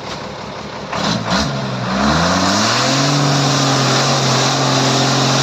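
A heavy vehicle's engine revs up, its pitch climbing over about two seconds after a couple of knocks, then holds at a steady high speed, working to pull a vehicle out of deep mud.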